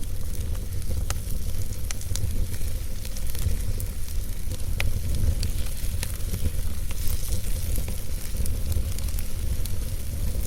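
Wood fire burning in a fireplace: a steady low rumble of the flames with a hiss, and scattered sharp crackles and pops from the logs.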